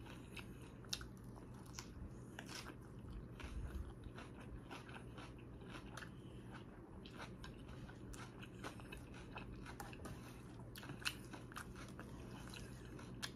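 A person chewing a mouthful of leafy salad close to the microphone: many small crunches and wet mouth clicks, irregular and faint, over a steady low hum.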